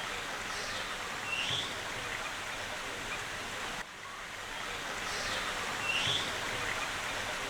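Steady rush of flowing water, with a short high chirp twice.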